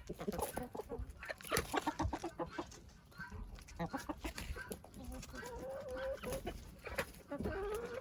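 Chickens clucking in quick runs of short notes, with one longer held note in the middle and a rising call near the end.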